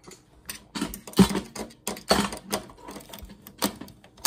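Irregular clicks and clacks of tools and plastic parts being handled while a monitor's case is taken apart, with a few louder knocks about a second and two seconds in.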